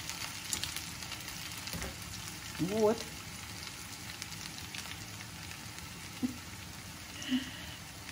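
Sliced potatoes frying in a pan: a steady sizzle with fine crackling.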